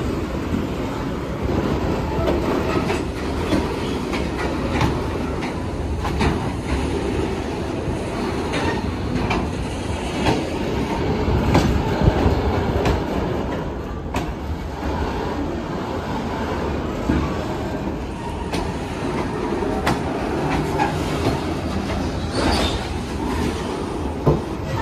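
Freight train of covered hopper wagons rolling past: steady rumble of wagon wheels on the rails with irregular clacks over the rail joints, and a brief higher wheel screech near the end.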